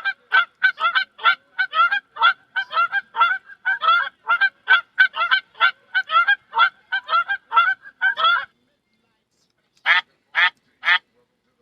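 A woman imitating a bird call with her voice, through a face mask: a fast run of short calls, about three a second for some eight seconds, then after a brief pause three more calls about half a second apart.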